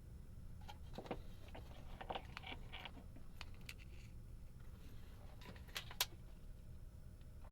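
Scattered faint clicks and small rattles, like parts or tools being handled, over a low steady hum, with one sharper click about six seconds in.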